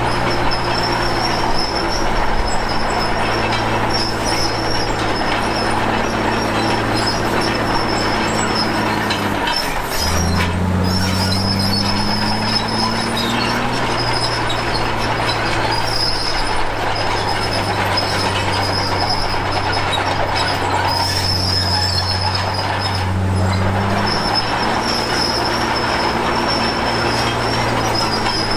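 Komatsu D53P crawler bulldozer working: its diesel engine drones steadily over a continuous high squeal from the steel tracks. The engine pitch drops sharply about ten seconds in, climbs back over the next few seconds, and shifts again near the end.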